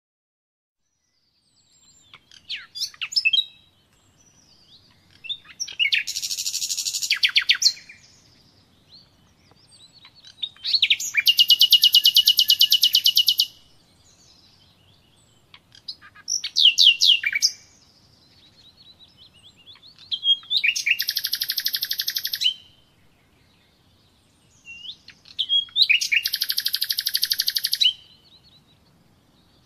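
A songbird singing: five phrases a few seconds apart, each opening with quick high sweeping notes and running into a long, very rapid trill of two to three seconds.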